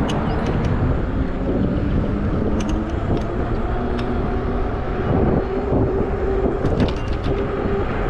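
Riding noise from a Zota Zephyr fat-tire e-bike under way: a loud, steady rumble of wind and tyres, with a steady hum beneath it. Light clicks and rattles come through now and then, several near the end.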